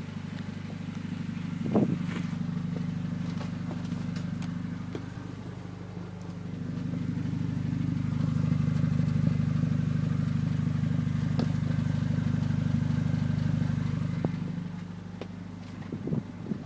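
Exhaust note of a 2008 Honda Civic's R18 1.8-litre four-cylinder through a Skunk2 Megapower aftermarket exhaust, running with a steady deep tone. There is a brief knock about two seconds in. The exhaust gets louder about seven seconds in, holds there, and drops back near the end.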